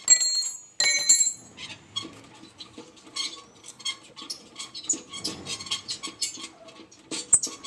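Metal parts being handled during bore well repair: two loud ringing metallic clanks in the first second or so, followed by a run of light, irregular taps and clicks.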